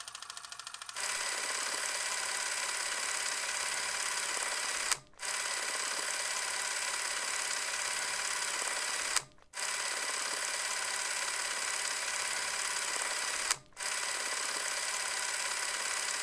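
Small electric motor and gearbox of a toy tractor whirring steadily at a high pitch, cutting out briefly three times, each time with a click.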